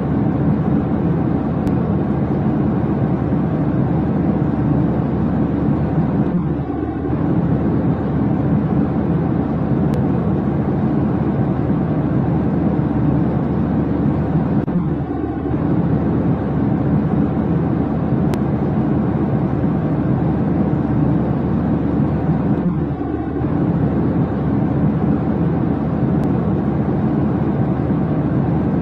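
Steady, loud, low rumbling drone like vehicle noise, with a brief dip recurring about every eight seconds.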